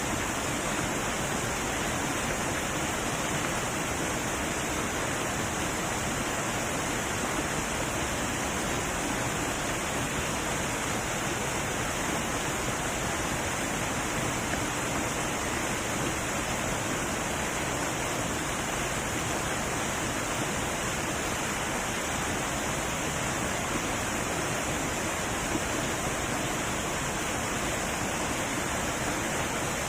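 Heavy waterfall rushing, a steady, unbroken roar of falling water.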